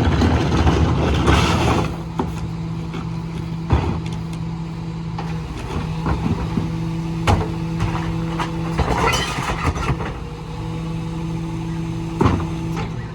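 Mini rear-loader garbage truck running with a steady hum, louder and noisier for the first two seconds, with a few sharp knocks and clanks spaced several seconds apart.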